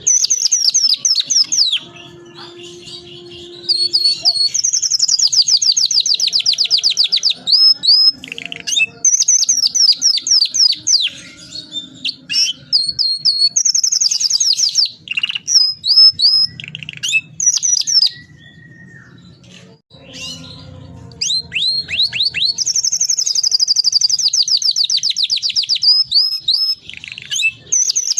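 Domestic canary singing loudly in long rolling trills: fast runs of rapid repeated high notes lasting a few seconds each, broken by short pauses and quick chirps.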